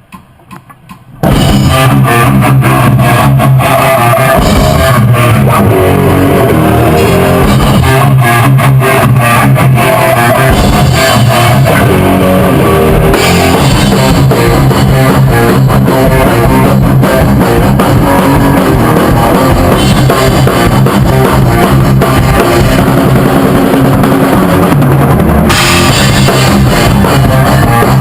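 A rock band playing a take together, drum kit and guitar, coming in loud and full about a second in after a brief hush.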